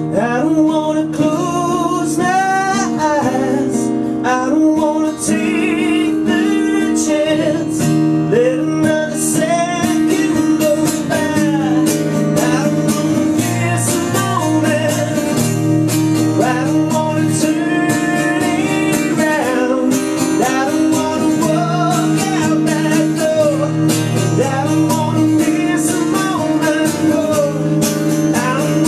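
Live acoustic country song: strummed acoustic guitar chords with a wavering, bending melody line over them.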